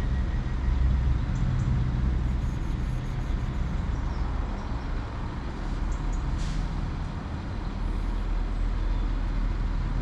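Diesel multiple unit train (Northern class 195) running at the platform with a steady low engine hum whose pitch drops about halfway through. A short hiss of air comes about six and a half seconds in.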